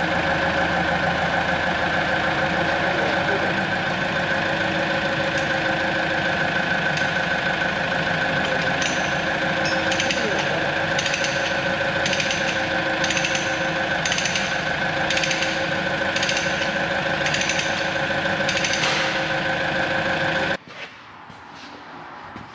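A machine running steadily and loudly, with a regular tapping about once a second through its second half, then stopping suddenly near the end.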